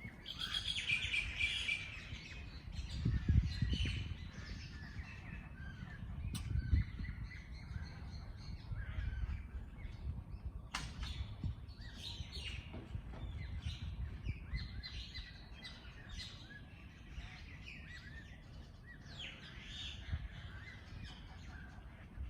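Several songbirds chirping and calling over one another in short, quick phrases, over a low rumble. A sharp click sounds twice.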